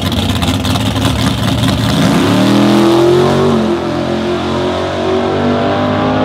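Truck engine revving hard: a rough rumble that climbs steeply in pitch about two seconds in, then holds at high revs, wavering up and down.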